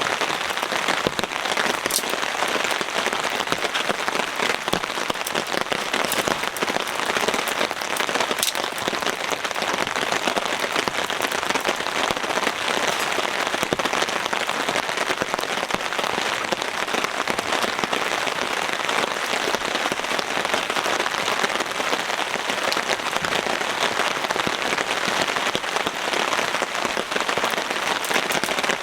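Heavy rain falling steadily, with scattered sharp ticks of individual drops.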